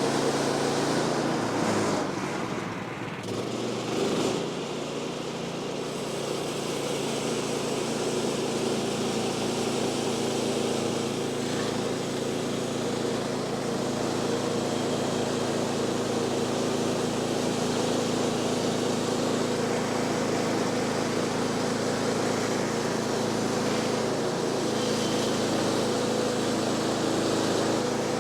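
Woodland Mills HM126 sawmill's gas engine running steadily under load, with a brief dip in level about two to four seconds in.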